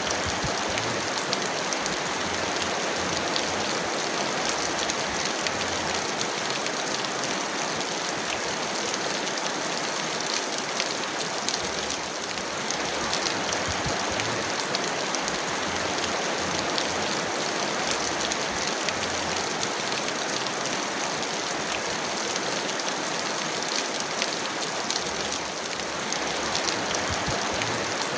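Heavy rain falling steadily, a dense even hiss with many small drop ticks and no let-up.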